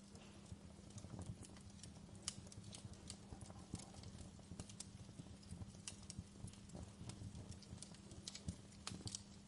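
Wood fire crackling: irregular small pops and snaps of burning logs over a soft, steady low hum.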